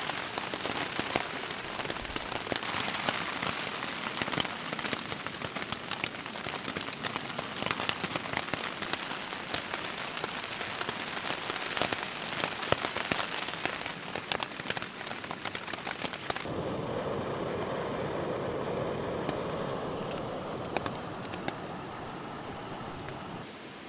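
Steady rain falling, with many sharp taps of individual drops striking. About two-thirds of the way through, the sound changes suddenly to a smoother, steadier hiss.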